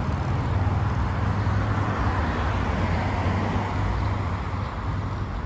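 Steady road-vehicle noise: an even rumble, strongest at the low end, with no distinct events.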